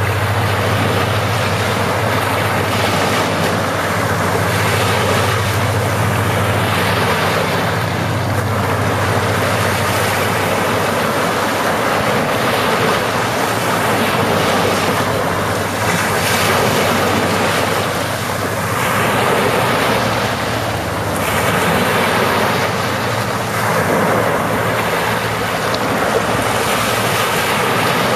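Sea waves breaking and washing on the shore, swelling every few seconds, with a steady low hum underneath.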